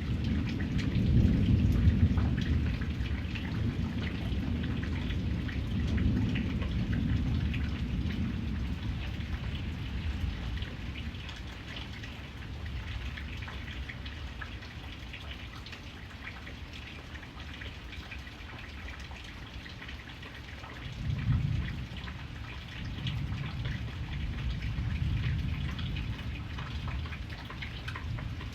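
Steady rain falling, with fine drops pattering on a surface. Low rolls of thunder rumble through it, loudest near the start and again about three-quarters of the way through.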